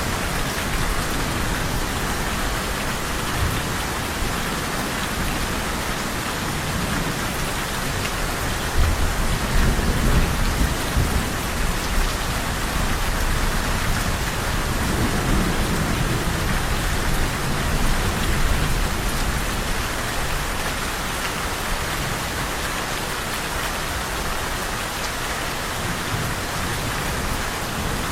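Steady heavy rain falling, with low rolls of thunder rumbling up about a third of the way in and again around the middle.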